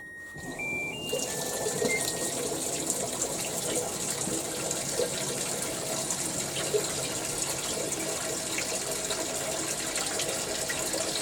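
Hitachi Beat Wash BW-V80C top-load washing machine giving a short electronic melody of beeps as it restarts, then water rushing steadily into the tub during its running-water rinse (注水すすぎ).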